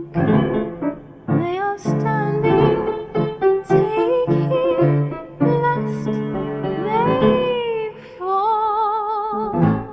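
A woman singing over piano, with sliding sung notes, ending on a long held note with vibrato shortly before the end, followed by a struck piano chord.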